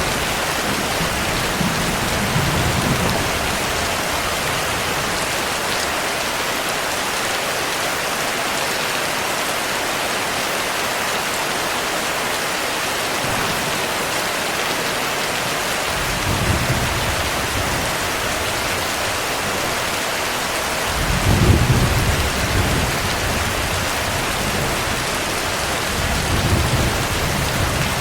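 Heavy rain falling steadily, with low thunder rumbling four times: briefly near the start, about sixteen seconds in, loudest about twenty-one seconds in, and again near the end.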